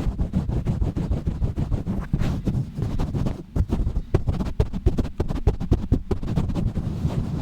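Fast, rough rubbing, scratching and pumping directly on a microphone, making a dense run of low thumps and scratchy strokes, with a brief lull about three and a half seconds in.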